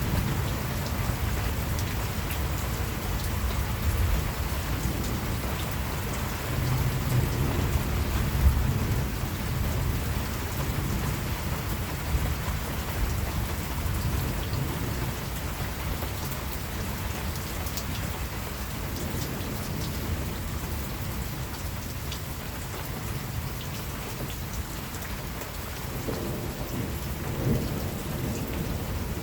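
Steady rain falling, with low rolls of distant thunder rumbling underneath, heaviest in the first ten seconds and swelling again near the end.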